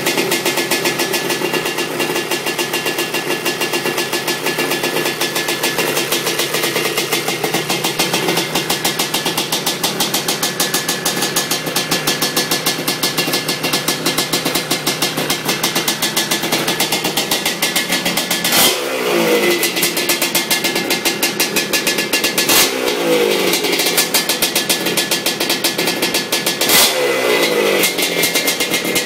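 ESR 310 big-bore two-stroke engine in a Honda 250R three-wheeler idling steadily on its first heat cycle after the build. In the second half it takes three short throttle blips, each dropping back to idle.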